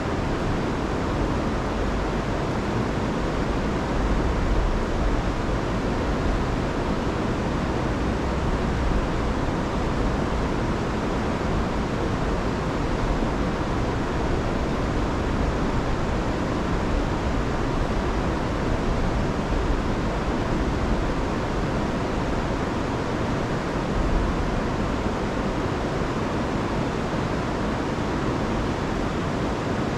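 Rain-swollen river rushing steadily, a continuous loud wash of water, heaviest in the low end.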